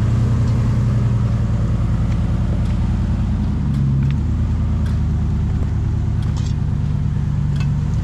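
Off-road truck engine idling steadily, with a few faint clicks over it.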